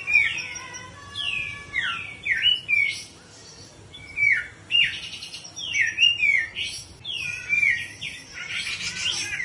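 Grey-cheeked bulbul (cucak jenggot) whistling: a string of clear whistles, each sliding down in pitch, given in pairs and threes, with a harsh raspy call near the end.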